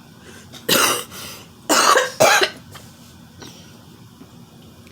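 A woman coughing three times: one cough about a second in, then two close together a second later.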